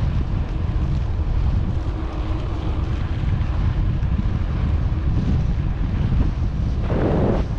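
Wind buffeting the microphone of a camera on a bicycle coasting downhill, a steady low rumble of rushing air, with a brief louder rush near the end.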